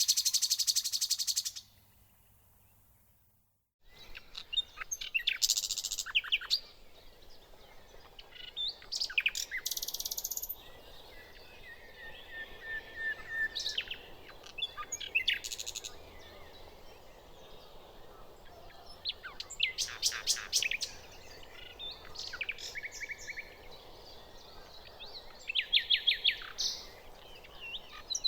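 Nightingale singing in separate phrases of rapid repeated notes, fast trills and clear sweeping whistles, with short pauses between phrases. The song drops out briefly about two seconds in and resumes about two seconds later.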